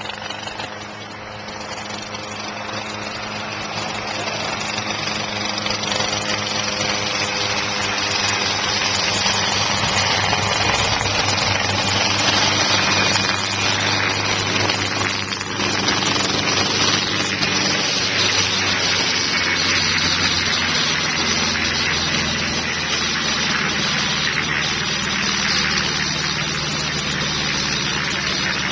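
Helicopter running close by, its engine and rotor noise with a rushing hiss, growing louder over the first ten seconds or so and then holding steady.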